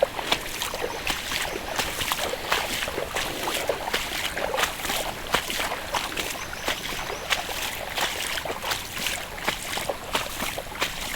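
Boots wading through water nearly boot-top deep, sloshing and splashing irregularly with each step.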